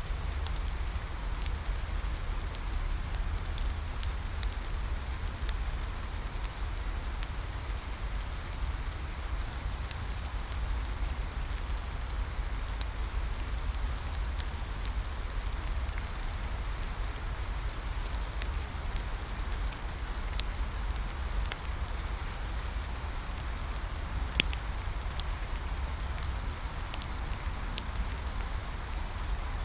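Steady rain falling, with a deep low rumble beneath it and scattered sharp pops from a crackling wood bonfire, one louder pop near the end.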